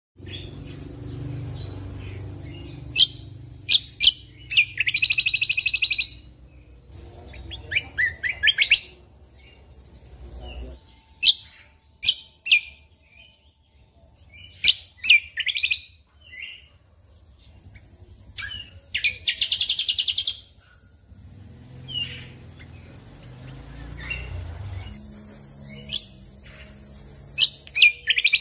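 Greater green leafbird (cucak kombo) singing: phrases of sharp, loud whistled notes that run into rapid trills, repeated every few seconds over a low background rumble.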